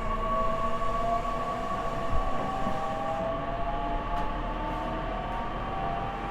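E501 series EMU's Toshiba IGBT VVVF inverter and traction motors whining under power, several tones slowly rising in pitch as the train picks up speed, over steady wheel and rail running noise, heard inside the motor car.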